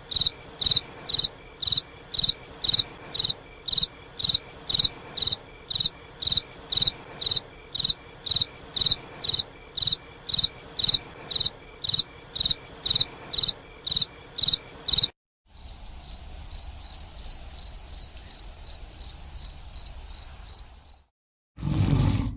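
Cricket chirping in a steady rhythm, about two high chirps a second, then after a brief break a second cricket recording with faster, slightly higher chirps. A loud low roar begins near the end.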